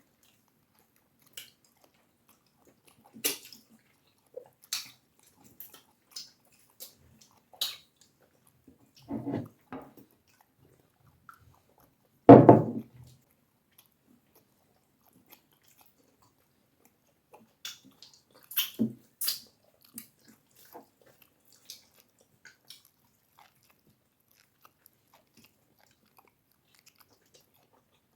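Close-miked eating of cassava fufu with egusi soup: scattered wet mouth clicks and chewing sounds, with one loud, dull sound about twelve seconds in.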